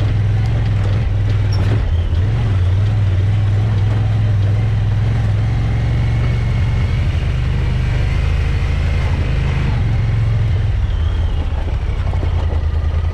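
Vehicle engine running close by with a steady low drone, easing about eleven seconds in to an evenly pulsing idle.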